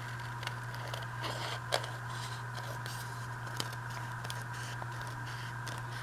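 Paper being handled and cut with scissors: scattered snips, scrapes and rustles, with a sharp click about two seconds in and another near the middle, over a steady low electrical hum.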